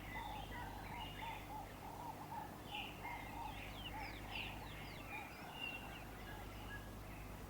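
Several birds calling together: one repeats a short note over and over, about two to three times a second, while smaller birds add high chirps and quick downward-sliding whistles. A steady low hum runs underneath.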